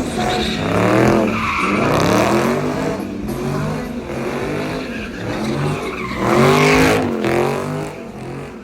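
A car engine revving up and down over and over, with tires squealing, as in a burnout or donuts. The loudest rev comes near the end.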